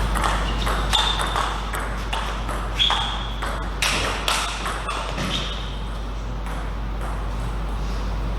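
Table tennis ball clicking off paddles and the table in quick, irregular succession, some hits with a short high ping. The hits stop about five and a half seconds in, leaving a steady low hum.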